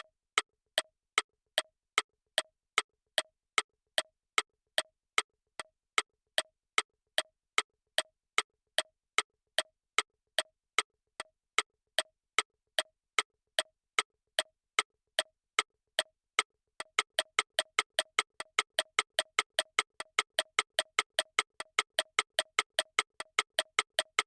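Electronic clock-tick sound effect, evenly spaced sharp ticks at about two and a half a second, switching to a faster pace of about five a second for the last seven seconds or so, as in a countdown timer nearing its end.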